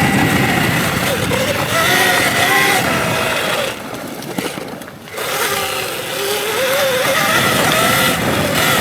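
Electric dirt bike's motor whine rising and falling in pitch with speed over wind and tyre noise, easing off briefly about halfway through.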